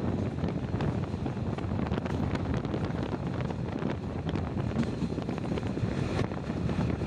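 Passenger train running along the track, heard at a carriage window: wind rushing over the microphone on top of a steady low rumble of wheels on rails, with faint scattered clicks.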